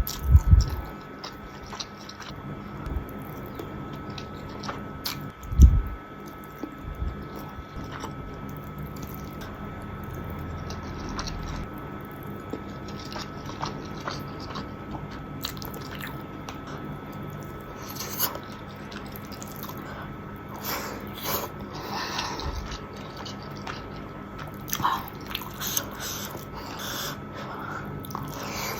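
Close-up mouth sounds of chewing and biting food, spicy shredded chicken with basil, with scattered small clicks. The chewing grows busier in the second half. Two dull thumps, the loudest sounds, come about half a second in and near six seconds.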